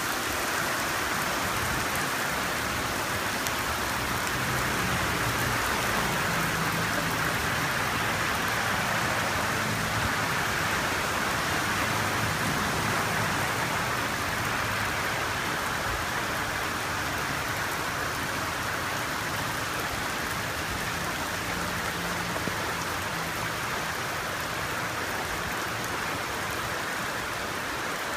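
Heavy rain pouring steadily onto pavement and a flooded street, a continuous even hiss.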